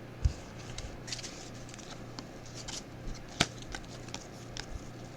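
Trading cards being handled and flipped through by hand, with scattered light clicks and snaps, one louder about three and a half seconds in, over a low steady hum.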